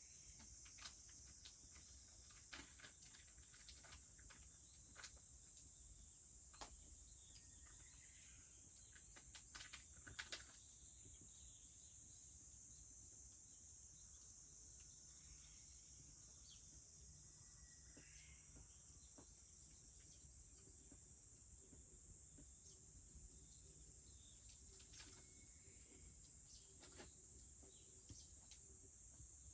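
Insects singing in a steady high-pitched drone, faint under low rural background noise. A few faint snaps and pops of a wood fire crackling break through, with a small cluster about ten seconds in.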